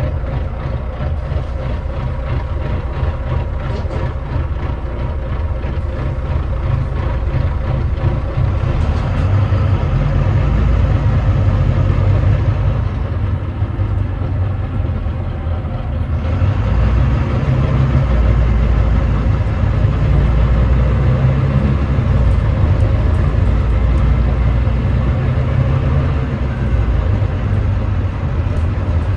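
The 9.3-litre Volvo D9B diesel of a Volvo B9TL double-decker bus running under way, a low heavy engine drone, with the video's title billing the engine as misfiring. It grows louder about a third of the way in, eases briefly near the middle, then rises again.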